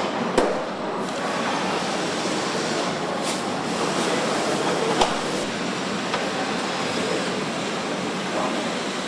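Truck assembly-line factory noise: a steady hiss of machinery and air, with a couple of sharp metallic knocks, the loudest about five seconds in.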